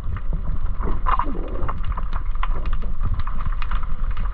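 Wind buffeting the microphone as a steady low rumble, with scattered sharp clicks and ticks throughout.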